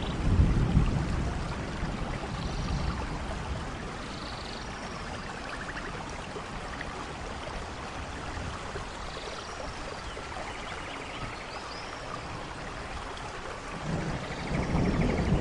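Steady rainforest rain falling, with low rumbles of thunder swelling about a second in and again near the end. Faint high chirps and short trills sound now and then over the rain.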